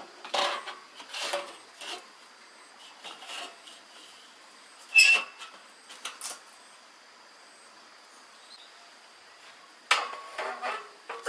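Scattered knocks, clinks and scrapes, the loudest a short ringing clink about five seconds in, with a quick run of knocks near the end.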